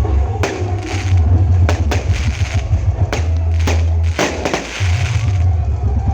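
Loud music played through a large carnival sound system, a deep bass line dominating with sharp percussion hits cracking over it. The bass drops out for about half a second around four seconds in, then comes back.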